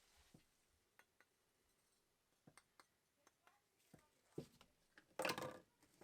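Faint scattered clicks and light clinks of small hard parts being handled, with a short, louder noisy burst about five seconds in.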